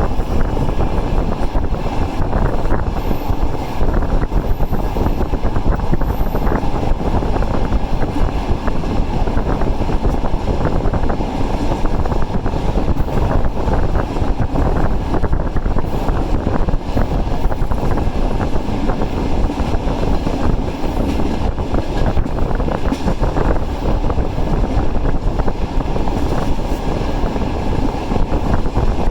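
Passenger train running, heard from aboard: a steady, even rumble of the moving train.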